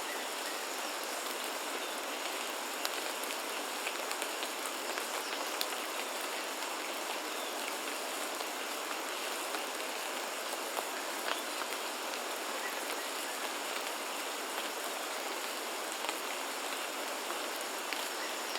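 Steady rain falling on foliage, an even hiss with many separate drops ticking through it, and a faint steady high-pitched tone underneath.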